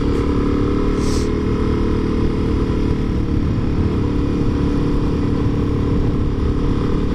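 Motorcycle engine running at a steady pitch while cruising, over a steady rushing noise.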